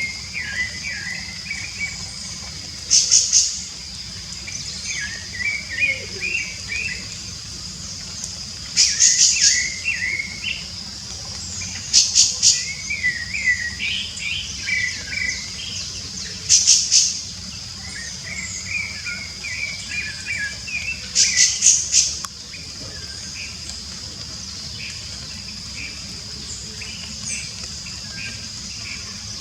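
Rufous-bellied thrush (sabiá-laranjeira) singing: short warbled phrases every few seconds, with loud bursts of rapid high notes between them. A steady high-pitched buzz runs underneath. The singing stops about three-quarters of the way through.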